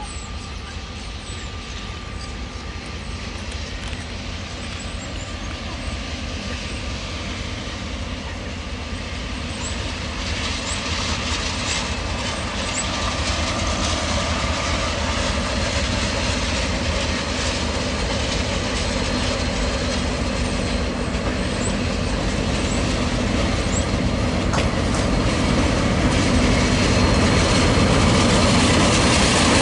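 KiwiRail diesel locomotive hauling a passenger train as it approaches. Its engine and wheel-on-rail noise grows steadily louder as it draws near, with a few brief high squeals from the wheels.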